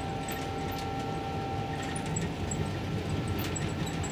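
Steady low rumble of a train pushing a 1934 Russell snow plow through snow, heard from inside the cab, with a faint steady whine over it.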